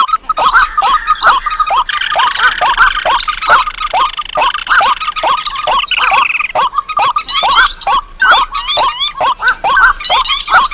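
Layered recorded calls of swamp and paddy-field birds of the rail family, such as waterhens and crakes, played as a bird-trapping lure. Downward-sliding calls repeat several times a second, with higher looping notes above them and a rapid chattering call from about 2 to 6 seconds in.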